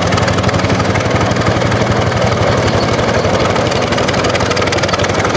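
Vintage tractor engine running with a steady, rapid, even firing beat.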